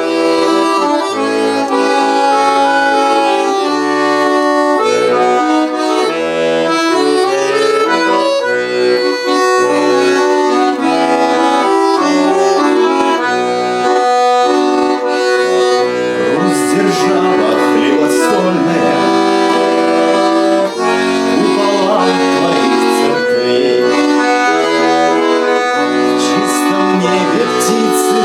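Accordion playing an instrumental tune: a sustained melody and chords over bass notes pumped out in a steady rhythm.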